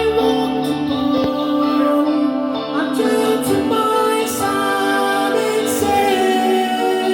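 Live band playing a medley during a soundcheck, with a singer holding long melodic notes over sustained instrumental chords.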